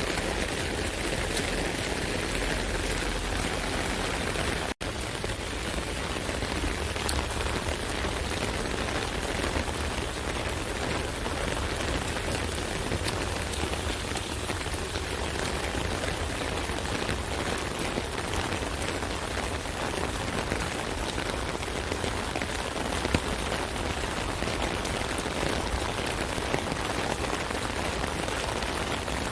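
Steady rain drumming on an umbrella canopy, a dense patter of countless small drop impacts. There is a momentary dropout in the sound a little under five seconds in.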